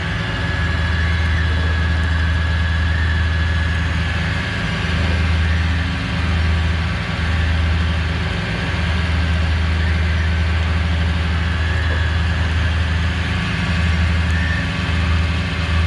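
Heavy truck engine running steadily at idle during a winch pull, a deep low hum with a faint steady high whine over it.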